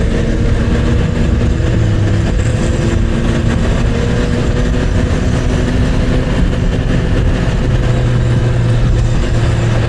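Motorcycle engine running steadily while riding along the road, with heavy wind and road noise; the engine note shifts slightly in pitch a few times.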